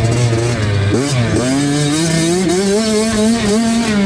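65cc two-stroke youth motocross bike engine running under throttle: the revs drop briefly about a second in, then climb over the next couple of seconds and ease off again near the end.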